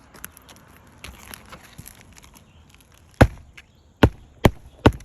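Hammer driving a roofing nail into a new 3-tab asphalt shingle: four sharp strikes about half a second apart, starting about three seconds in, after faint handling noise.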